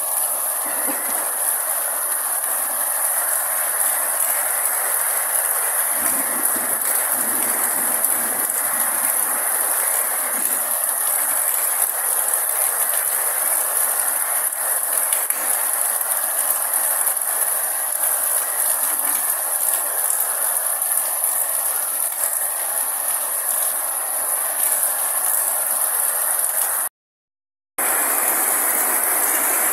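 Steady rain falling on trees and broad banana leaves, an even hiss without letup. The sound cuts out completely for under a second near the end.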